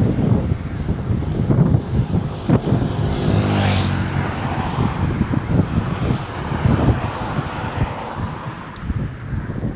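A road vehicle drives past, its engine and tyre noise swelling to a peak about three and a half seconds in and then fading. Wind buffets the microphone throughout.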